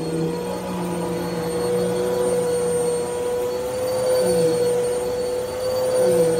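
Vacuum cleaner running on carpet: a steady motor whine with a hum underneath, its lower tone dipping briefly twice as it is pushed along.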